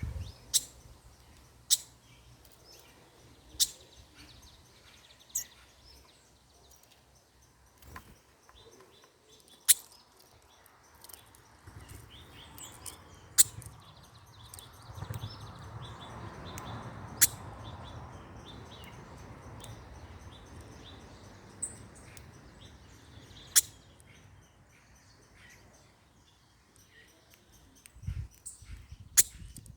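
Small birds chirping and twittering, with sharp, loud clicks every few seconds at irregular intervals.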